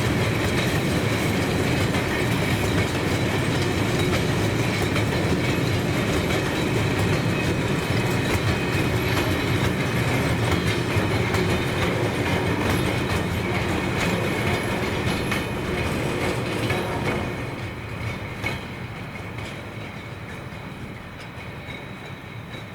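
A train rolling past on the rails: a steady rumble with scattered wheel clicks and a high ringing. The noise fades away about three-quarters of the way through as the train moves off.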